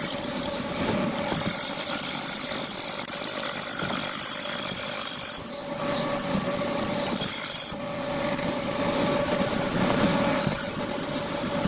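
A power tool working hardwood, running steadily with a constant whine over a rough, scraping noise, and easing off briefly about five and a half and again about seven and a half seconds in.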